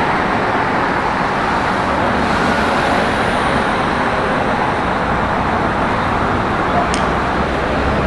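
Steady city road traffic noise, a continuous rush of passing vehicles.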